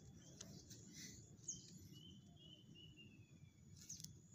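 Near silence with faint outdoor ambience: distant birds chirping, with a quick run of short high notes about two seconds in and a couple of brief falling calls.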